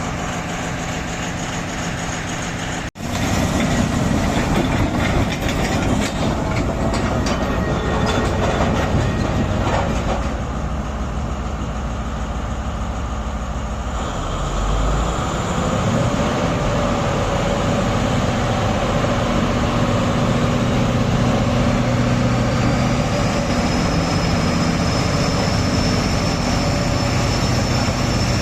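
Heavy mining machinery engines running with a steady, continuous drone. The sound drops out sharply about three seconds in, and a high whine rises and then holds steady about two-thirds of the way through.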